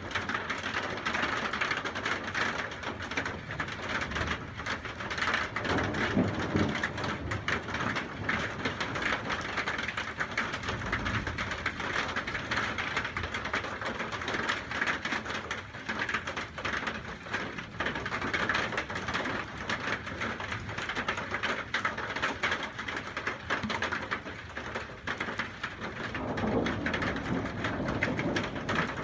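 Heavy rain pattering steadily during a thunderstorm, with a few low rumbles of thunder rising and fading.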